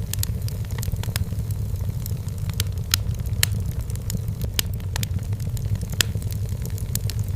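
Wood fire in a fireplace crackling, with irregular sharp pops scattered throughout over a steady low rumble; the loudest pops come about three and six seconds in.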